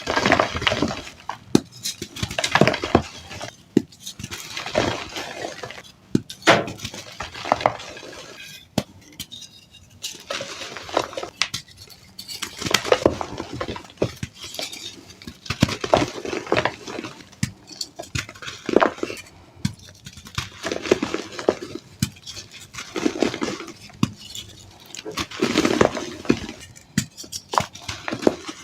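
Glitter-mixed reformed gym chalk being crushed and crumbled, crisp crunching with sharp crackles, in repeated bursts every second or two.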